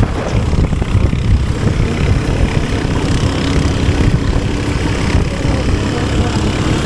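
Motorcycle on the move: engine running steadily under heavy wind buffeting on the microphone.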